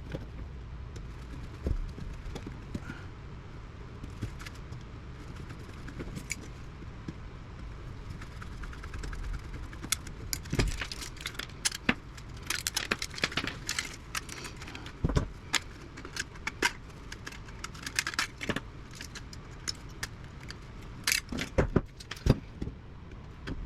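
Hand tools and small metal parts clicking and clinking as an old valve radio's chassis is taken apart for scrap. There are irregular sharp clicks, more frequent from about halfway through.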